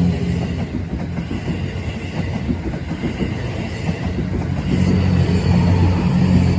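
Twilight Express Mizukaze (Kiha 87 series hybrid diesel train) passing close by, wheels clattering over the rails over a steady low engine hum.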